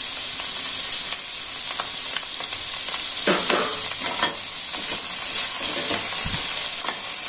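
Mushrooms, onion and green bell pepper sizzling as they sauté in a little oil in a stainless steel pan, with a steel spatula scraping and stirring them; a couple of louder scrapes come around the middle.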